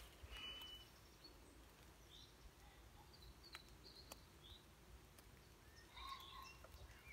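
Near silence in a woodland, with faint bird calls: a few short high chirps scattered through, and a small cluster of them about six seconds in, over a low rumble.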